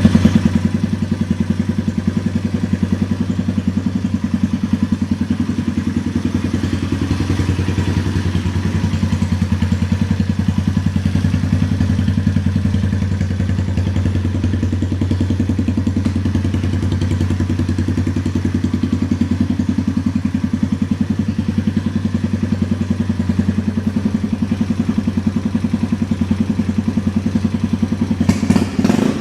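Yamaha TW200E single-cylinder four-stroke engine idling steadily through an aftermarket custom muffler, with even exhaust pulses. Just before the end the sound turns briefly uneven, with a few louder spikes.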